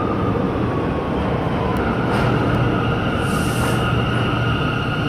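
New York City subway train running through the station: a steady rumble under a high electric whine, with a short hiss about three seconds in.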